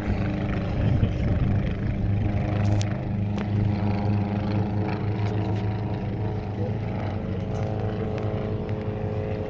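Engine and propeller drone of Rollason Turbulent single-seat light aircraft, a steady hum that swells slightly about a second in.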